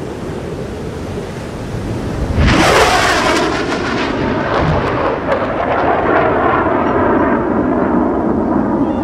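Fighter jet passing low: loud jet noise sets in suddenly about two and a half seconds in and goes on as a crackling rumble, over steady wind noise.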